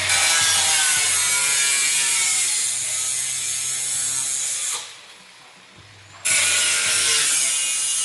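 Power tool cutting out rusted-through sheet metal in a car's engine bay, a loud rasping cut over a steady motor hum. The cut stops about five seconds in and starts again about a second and a half later.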